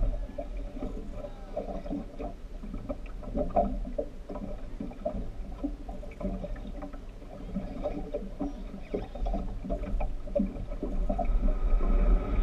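Speedboat running on the water: a steady low engine-and-hull rumble with scattered knocks and faint voices on board.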